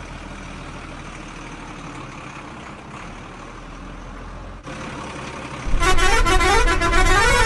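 Steady low engine rumble of a toy-style dump truck sound effect; about five and a half seconds in it gives way to a much louder warbling electronic horn-like tune, its pitch rising and falling a few times a second.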